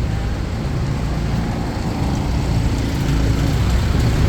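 Street traffic: engines of passing vehicles running steadily, getting a little louder near the end.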